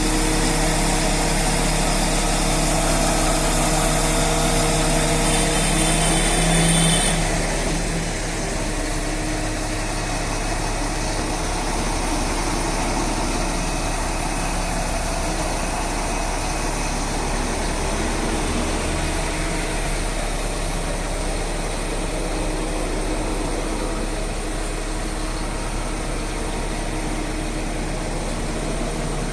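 Mobile crane's diesel engine running steadily, rising briefly about six seconds in, then dropping a few seconds later to a lower, quieter steady run.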